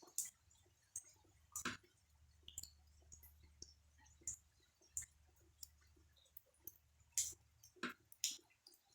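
Scattered raindrops dripping and tapping on a hard surface: irregular sharp clicks, about one or two a second, some louder, over a faint low hum.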